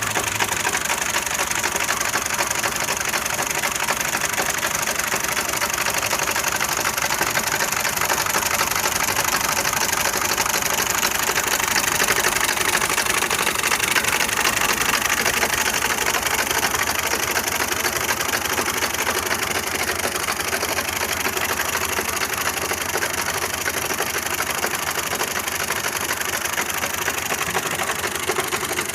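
Tractor engine running at a steady speed with a fast, even clatter.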